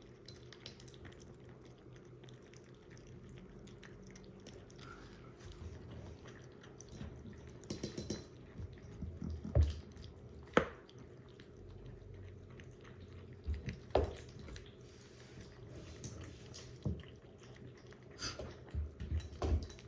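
A kitten eating dry kibble: scattered small crunches and clicks, with a few sharper clicks standing out.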